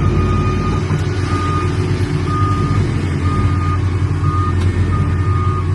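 A reversing alarm beeping steadily at about one high beep a second over the loud, steady drone of heavy farm machinery engines during sugar cane harvesting haulout.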